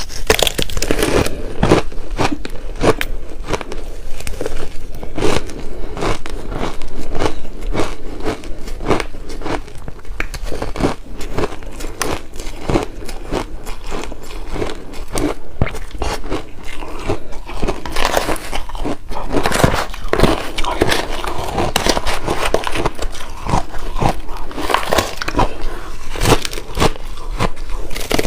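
Close-up chewing and biting of shaved ice and ice chips: a steady run of dense, crackly crunches.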